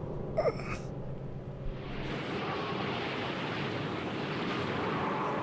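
A steady rushing noise sets in about two seconds in, after a brief cry-like sound near the start.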